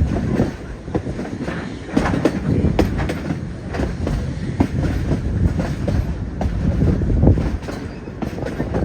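Narrow-gauge railroad passenger car rolling along the track, with a steady low rumble and wheels clattering irregularly over the rails.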